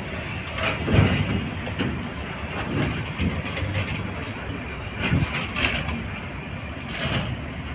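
Freight train of flat wagons rolling slowly past, wheels running over the rails with a steady rumble and a louder clunk now and then: about a second in, around five seconds and near the end.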